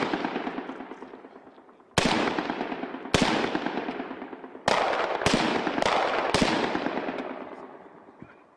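HK G36 5.56 mm assault rifles firing single shots, each with a long echoing tail. Two shots come about a second apart, then after a pause four more follow about half a second apart.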